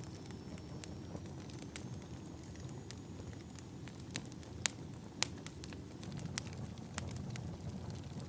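Log fire in a fireplace crackling: a steady low rumble of burning wood with irregular sharp pops and snaps, the loudest two about halfway through.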